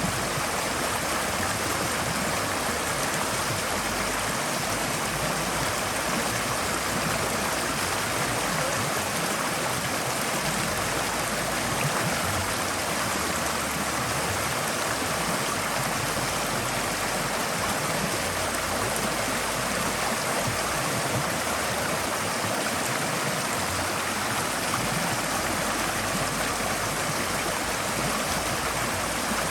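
Forest stream flowing: a steady, even rush of water over stones.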